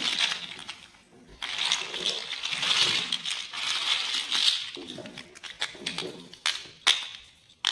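Small plastic building blocks rattling and clattering together in a dense run of quick clicks, followed by a few separate sharp clicks near the end.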